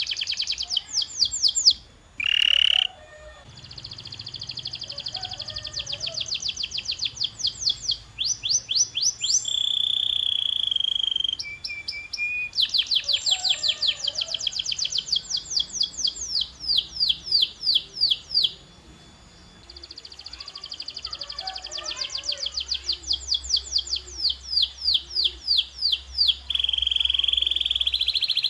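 Domestic canary song: long rolls of rapidly repeated high notes, some faster and some slower, broken by a few held whistled notes and one short pause about two-thirds of the way through.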